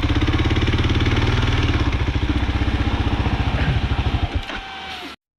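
Kawasaki KLR 650's single-cylinder engine idling with an even, pulsing beat, then stopping about four seconds in, with a sharp click or two as it dies. The sound drops out completely just before the end.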